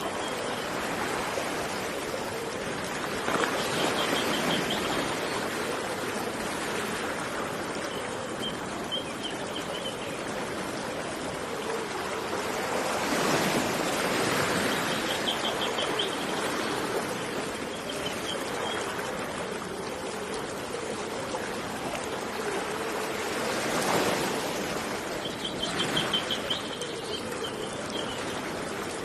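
Steady rush of flowing water that swells up three times, with a small bird repeating a short high trill every few seconds.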